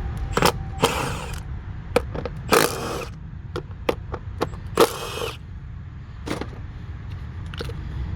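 Clicks, clunks and scraping of hand tools and parts being handled in an engine bay while ignition coils and spark plugs are checked, over a steady low rumble. Three louder scraping rustles come about a second in, near the middle, and about five seconds in.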